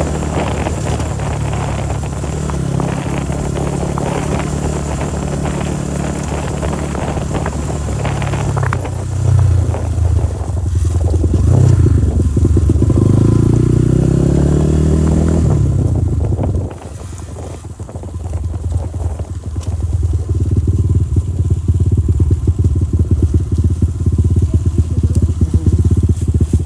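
Motorcycle engine running steadily, then revving up and down in pitch for several seconds around the middle, where it is loudest. It drops off suddenly and then comes back to a steady run.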